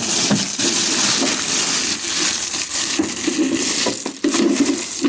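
Welder packaging being handled: continuous rustling and crunching of packing material, with a few light knocks.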